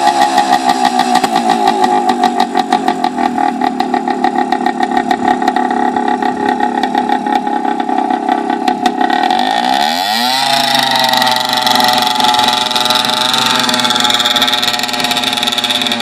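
Motorcycle engine idling with a fast, even pulse, then revved up about ten seconds in and held at a higher, steady speed.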